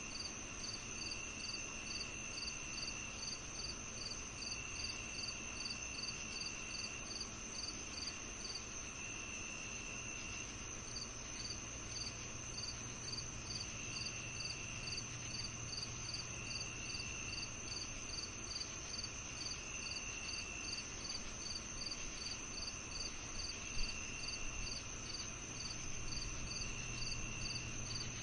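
Summer evening insect chorus of crickets: one continuous high trill, a steady even rhythm of short chirps, and a lower trill that starts and stops every couple of seconds, over a faint low rumble.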